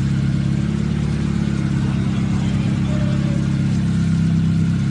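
Car engine idling steadily, heard close up in the open engine bay, while the steering wheel is turned lock to lock so the power steering pump pushes fluid back up into the reservoir.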